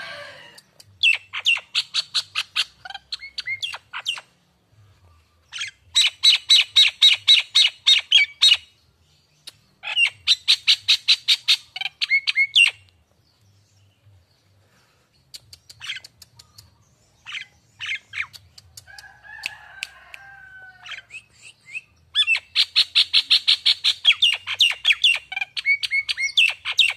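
Jalak Nias bird calling in bursts of rapid, sharp chattering notes, each burst two to four seconds long with short pauses between. A lower, gliding call comes once past the middle.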